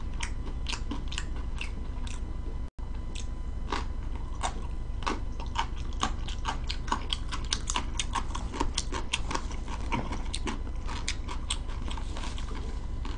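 Close-miked crunching and chewing of pickled yellow radish (danmuji): a quick, irregular run of crisp crunches, several a second, over a low steady hum. The audio drops out for a split second under three seconds in.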